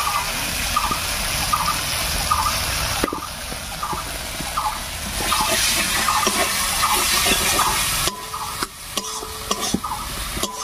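Masala with green peas sizzling in hot oil in a wok while a cashew and poppy-seed paste is scraped in and stirred with a metal spatula. The sizzle eases about eight seconds in, leaving clicks and scrapes of the spatula against the wok.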